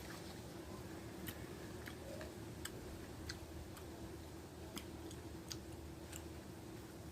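Close-up eating sounds: a person chewing a meal of rice and dried fish, with scattered sharp mouth clicks and smacks about once every half second to a second, over a steady low hum.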